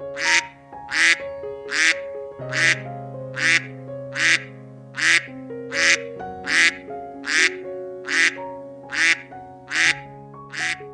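A duck quacking over and over at an even pace, about one quack every three-quarters of a second, over background music with held notes.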